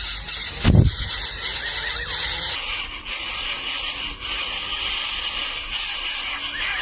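Greater coucal chicks in the nest giving thin squeaky begging calls over a steady high hiss, with one low thump less than a second in.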